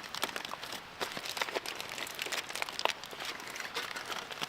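Wrapping crinkling as it is handled: a run of irregular small crackles with a few sharper clicks.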